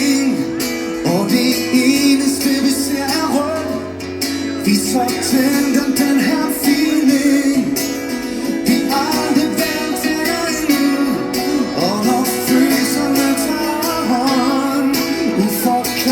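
Live band performing a song: a singing voice over strummed guitars and band backing.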